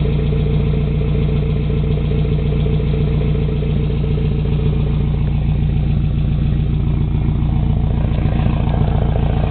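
Nissan 240SX's KA24DE 2.4-litre inline-four idling steadily through an ISR dual 3-inch straight-pipe catback with the stock manifold and catalytic converter, a low, growly exhaust note.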